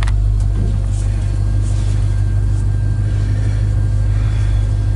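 Steady low engine and exhaust rumble heard from inside the cab of a 1982 Chevrolet El Camino with a new crate engine, Edelbrock fuel injection and FlowMaster mufflers.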